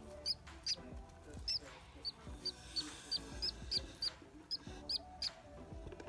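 Budgerigar chick cheeping over and over, short high peeps about two or three a second; the keeper takes it for the chick missing the sibling just taken away from it.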